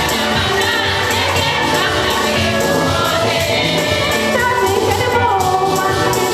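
A choir singing a gospel song over a steady percussion beat.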